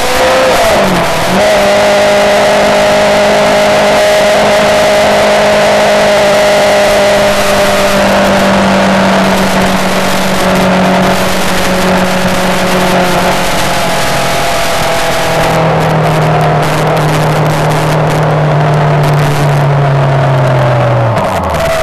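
Yamaha R6 sportbike's inline-four engine running at high revs under way on a track. There is a brief dip and recovery in pitch about a second in, then a long steady note that slowly eases lower before falling sharply near the end.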